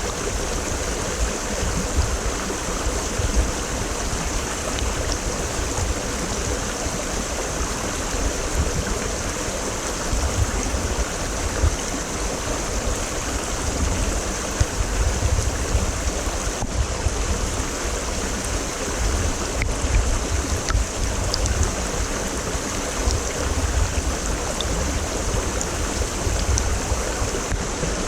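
Mountain stream (quebrada) running steadily, water rushing and splashing over rocks, with a deep rumble underneath.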